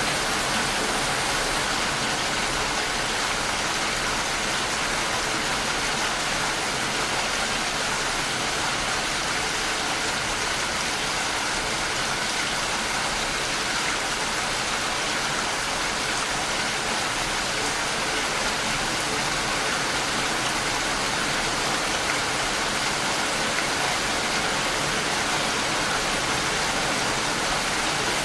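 Steady, even rain sound: a continuous hiss of falling rain with no separate drops or thunder standing out.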